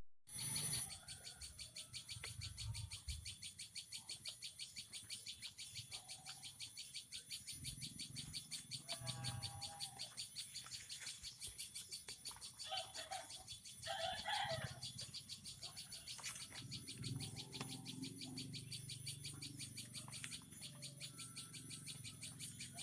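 Faint outdoor bird calls, a few short pitched calls standing out around the middle, over a steady, fast, high-pitched pulsing buzz.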